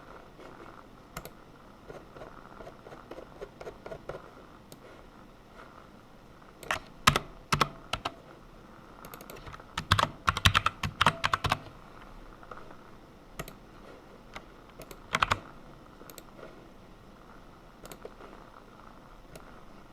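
Typing on a computer keyboard in irregular spurts: light, scattered keystrokes at first, then louder clusters of key clicks about seven and ten seconds in, and a couple of hard keystrokes around fifteen seconds.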